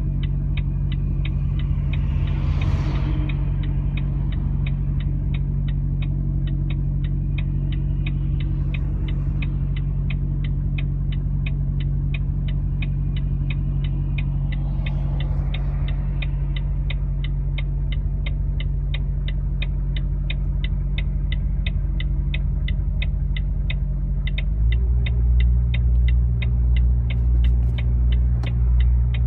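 Vehicle engine running steadily with a low hum, and a regular ticking about three times a second over it. Two brief whooshes pass through, and about 25 seconds in the engine note drops deeper, gets louder and begins to throb.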